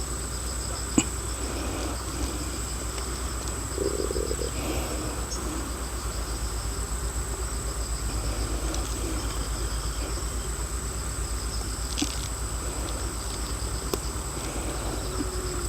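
Insects calling steadily outdoors: a continuous high-pitched whine with a fast pulsing trill beneath it, and a few sharp clicks, one about a second in and one near twelve seconds.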